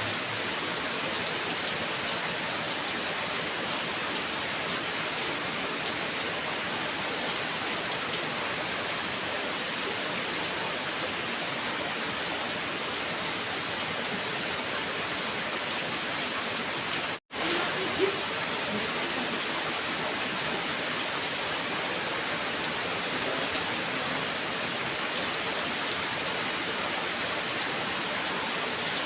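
Heavy rain falling steadily in an even hiss, cut to silence for a split second about 17 seconds in before carrying on.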